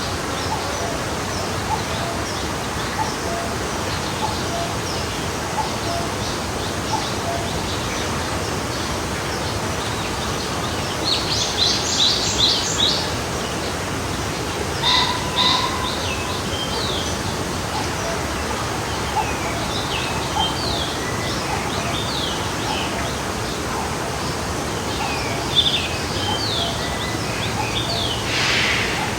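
Forest stream flowing steadily, a constant rush of water, with several birds chirping and singing over it. Louder runs of quick chirps come about eleven seconds in, again a few seconds later, and near the end.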